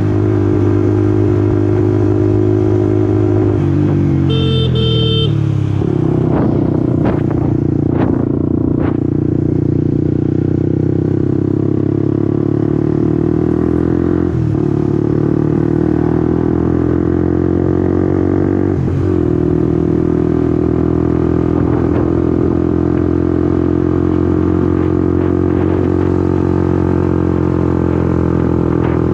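Honda CBR150R's single-cylinder engine, heard close up while riding. It slows with falling pitch about four seconds in while a horn sounds briefly, then pulls away and climbs through the gears, with short dips at the upshifts about six, fourteen and nineteen seconds in, before running steadily at cruising speed.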